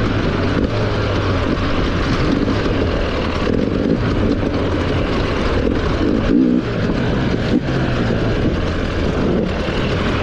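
Enduro dirt bike engine running under throttle on a rough trail, heard close from the rider. The engine note rises and falls and briefly dips several times.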